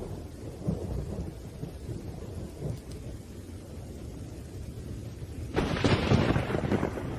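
Thunderstorm: low rolling thunder over steady rain, with a louder, sharper thunderclap breaking in about five and a half seconds in and fading over a second or so.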